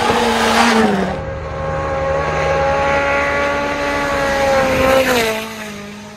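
Rally car engine at high revs. Its note drops about a second in, holds steady, then falls away a little after five seconds as the sound fades.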